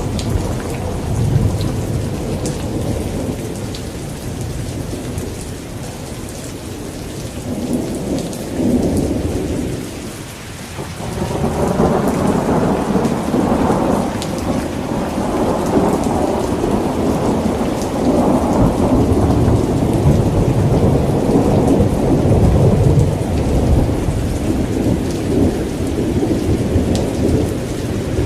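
Rain falling with rolling thunder rumbling on and on. The rumble eases about ten seconds in, then a new roll builds and grows louder.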